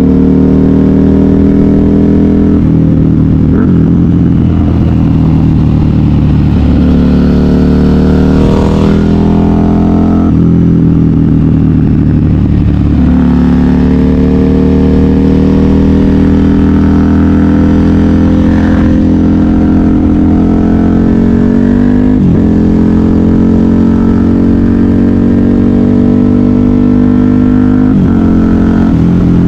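KTM 990 Super Duke R's V-twin engine through a custom exhaust, pulling hard under throttle. The engine note climbs steadily in pitch several times, and each climb ends in a sudden drop before it rises again.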